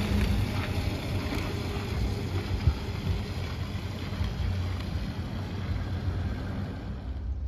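Loaded coal train rolling slowly past: a steady low rumble of wheels on rail, with a sharp clank about two and a half seconds in.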